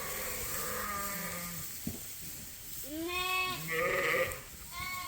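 Sheep bleating, several separate calls: a low one held for over a second at the start, then shorter, higher calls in the second half. These are lambs and ewes calling to find each other in a newly merged flock.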